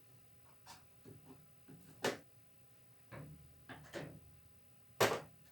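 Scattered knocks and clunks of parts and tools being handled while a washing machine is reassembled, about five separate hits, the loudest about two seconds in and near the end.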